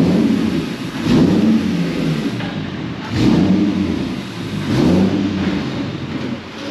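Drift car's engine revving in about four surges, the pitch climbing and dropping back each time as the car is driven off on its first run after prep.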